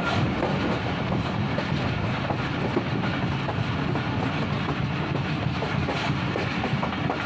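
Thal Express passenger train running along the track, heard from an open carriage window: a steady rumble of wheels on rails.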